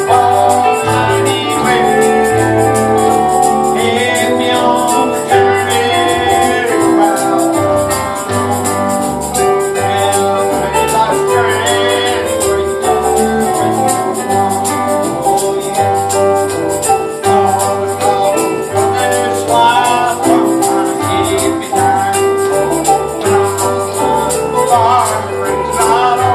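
Live gospel church music: a tambourine shaken on a steady beat over a moving bass line and sustained instrument notes, with voices singing.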